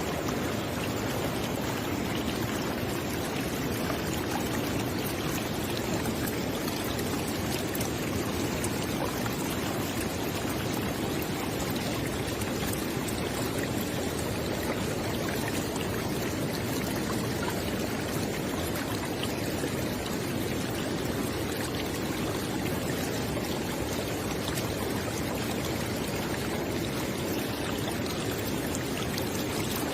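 River water flowing steadily over rocks, a constant rushing with fine splashes and trickles.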